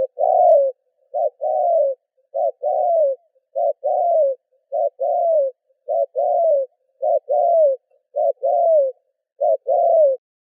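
A dove cooing in a steady series of nine two-part calls, each a short note followed by a longer falling note, a little over a second apart.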